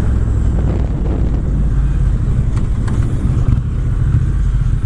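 Triumph Bonneville T120's 1200 cc parallel-twin engine, fitted with British Customs Sleeper Pro exhaust, running steadily under way, mixed with wind rush over the rider's microphone.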